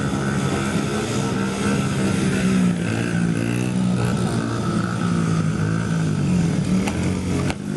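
Small mini-bike motorcycle engine running and revving, its pitch rising and falling as the throttle is worked. The sound briefly drops out near the end.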